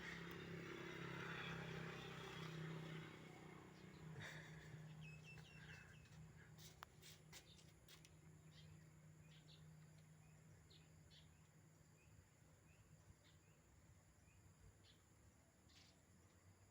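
Faint outdoor ambience: a low steady hum with a light hiss fades over the first few seconds, then scattered faint, short high chirps and a few small clicks.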